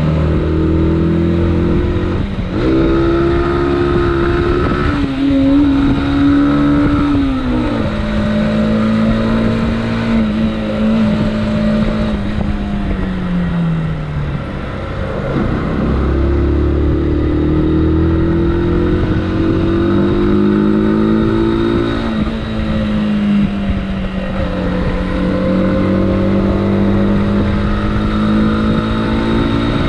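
Motorcycle engine running under way, its note climbing under acceleration, dropping abruptly at gear changes and sinking as the bike slows, then climbing again.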